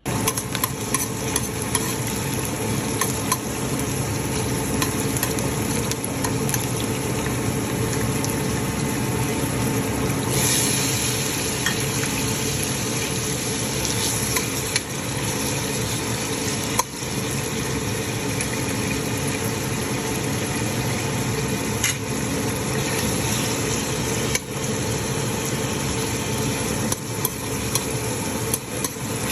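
Food sizzling in hot oil in a pan, stirred with a utensil that clicks and scrapes against the pan. The sizzle turns brighter about ten seconds in.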